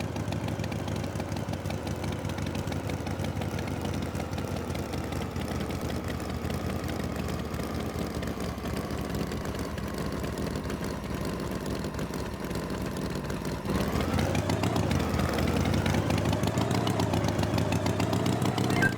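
Engine running at idle with a steady throb, its pitch drifting slightly lower; about 14 seconds in it gets louder and revs, the pitch rising and wavering.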